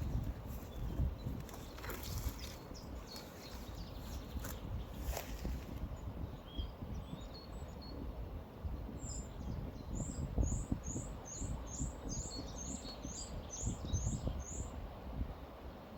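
Steady low rush of river water and breeze, with a bird singing a run of about a dozen short, high repeated notes, about two a second, in the second half, and a few scattered chirps elsewhere.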